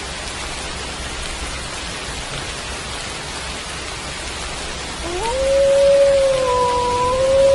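Steady rain falling. About five seconds in, a wolf's howl begins, sliding up and then holding a long, steady note, with a higher tone above it.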